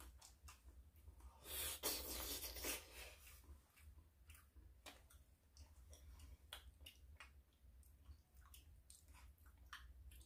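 Faint chewing of raw vegetables with small mouth clicks, and one louder stretch of noise about two seconds in.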